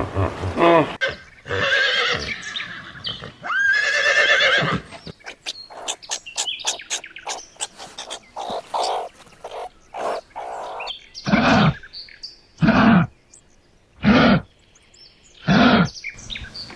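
Animal calls: several pitched calls in the first few seconds, then a run of short clicks and chirps, then four loud short calls about a second and a half apart.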